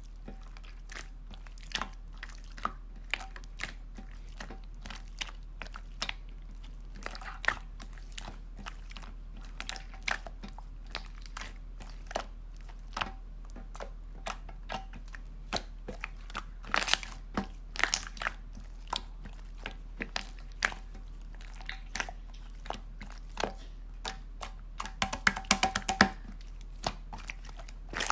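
Slime being squeezed and pressed by hand, giving irregular sharp clicks and pops, with a quick flurry of them near the end.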